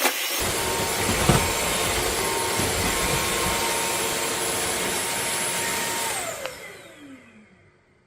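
Bissell CrossWave OmniForce cordless wet-dry vacuum running steadily with a whine. About six seconds in it is switched off, and the motor's whine falls in pitch as it spins down and fades away.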